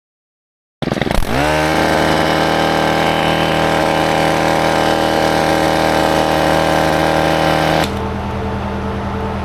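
A motor starts about a second in, spins up quickly and runs steadily at speed. Near the end it changes abruptly to a quieter, lower steady running sound.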